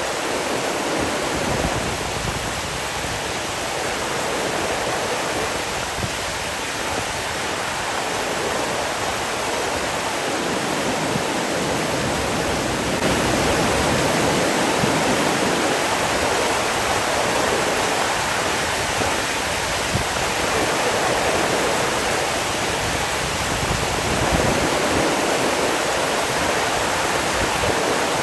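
Rushing water flowing steadily, an even, continuous hiss.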